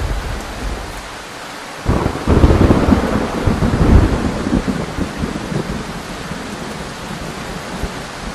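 Thunderstorm: steady rain with a sudden loud clap of thunder about two seconds in, rumbling for a few seconds before it fades back into the rain.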